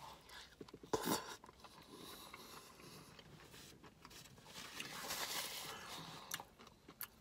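A man chewing a mouthful of chicken tortilla soup, with quiet wet mouth sounds. A short sharper mouth noise comes about a second in, and a soft breathy stretch comes around five seconds in.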